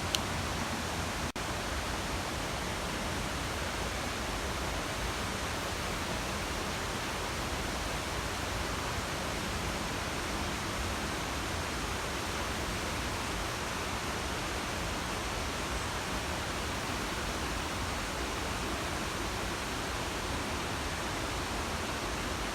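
Steady rush of river water over Nymph Falls on the Puntledge River, an even, unbroken roar of falling water, with a momentary dropout a little over a second in.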